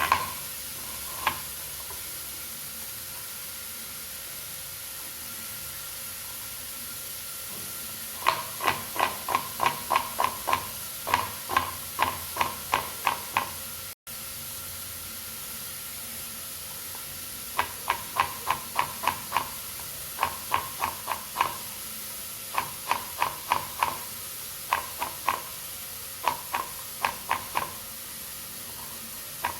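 Knife chopping vegetables on a cutting board: runs of quick sharp strokes, about three or four a second, stopping and starting again several times.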